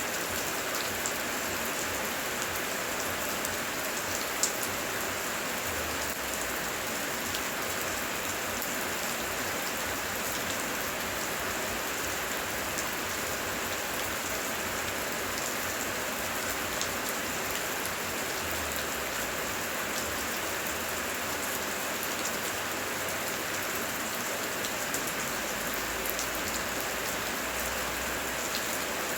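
Heavy rain falling steadily, with individual drops ticking sharply now and then, one louder drop about four seconds in, and a faint low rumble at times.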